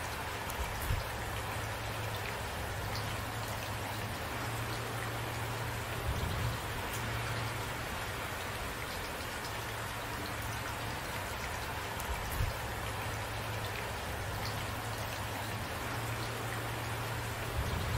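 Steady rain falling, an even hiss of many drops, with a few brief low thumps about every six seconds.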